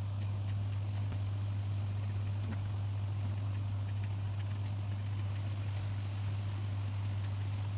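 A steady low hum that never changes, with a faint hiss over it and scattered light ticks.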